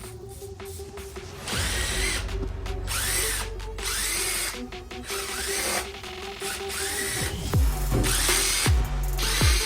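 Handheld power tool running in repeated bursts, its motor pitch rising and falling with each trigger pull. Near the end come several heavier bursts, each winding down with a falling pitch as the trigger is released.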